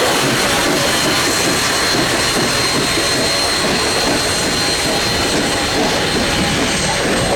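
Chesapeake & Ohio 1309, a 2-6-6-2 Mallet steam locomotive, running close by: a loud, steady roar with a thin high whine through it.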